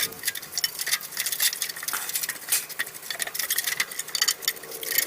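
Small metal parts and tools clinking and tapping against each other in quick, irregular succession.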